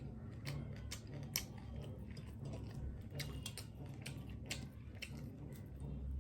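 Close-miked chewing of crab meat: soft wet mouth sounds and small irregular clicks, with one sharper click about a second and a half in.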